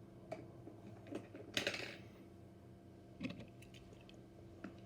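A few faint, light clicks and taps of small die-cast toy cars being handled and set down, with a short rustle about a second and a half in.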